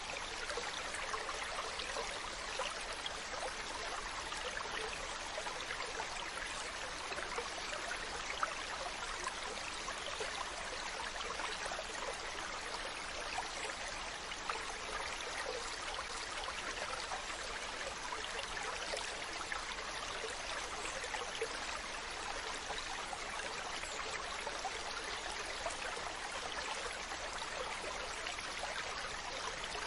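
Steady trickling, running water with faint scattered crackles.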